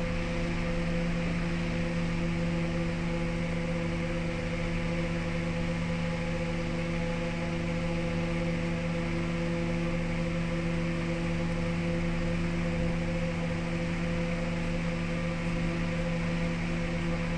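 Wood lathe running steadily, its motor giving a constant hum with no change in speed.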